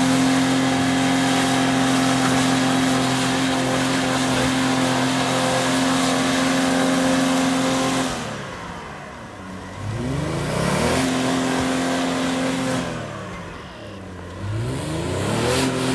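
Ford Five Hundred's V6 engine held at high revs with the wheels spinning in deep mud. The car is stuck and not moving. The revs fall away and climb back up twice in the second half.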